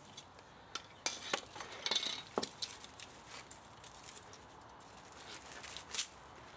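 Small metal parts and hand tools clinking and clicking while an electric motor is taken apart for scrap. The clinks are scattered and irregular, busiest about two seconds in, with one sharp click near the end.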